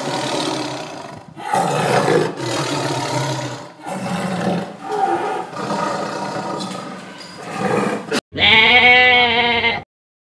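Tiger growling and roaring in a run of rough, breathy calls, followed near the end by a single sheep bleat with a wavering pitch.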